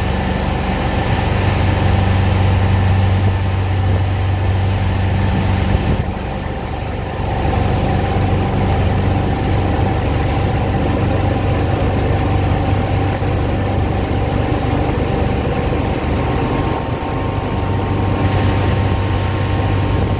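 A 31 ft Wellcraft cruiser's engine running steadily under way, with a short dip in level about six seconds in.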